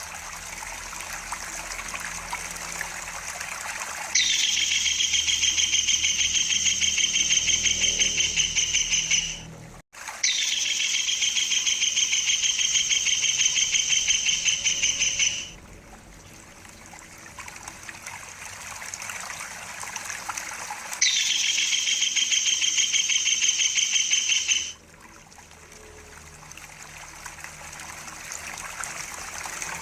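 Kingfisher giving long rolling trills, each a rapid run of notes lasting about five seconds, three times with short gaps and a fourth starting at the end. A steady trickle of running water continues underneath.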